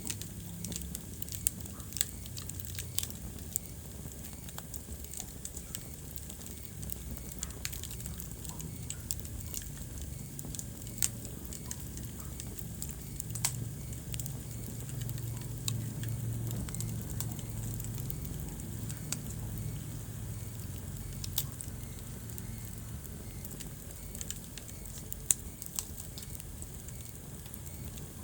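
Wood fire crackling in a fireplace: frequent irregular sharp pops over a low, steady rumble of the burning logs, with a few louder pops, one of the loudest near the end.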